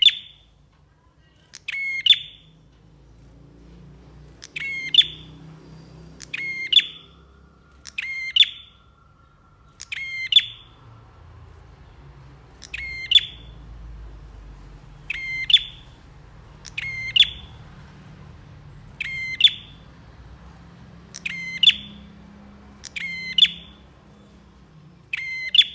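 Prinia (prenjak) giving a short, loud, rapid call over and over, about once every two seconds, each call the same sharp burst of quick notes. A faint low hum runs underneath.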